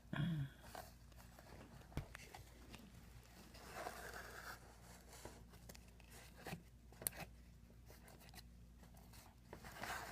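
Faint handling noises from hands working on the bumper: scattered sharp clicks and taps, with a brief scrape about four seconds in.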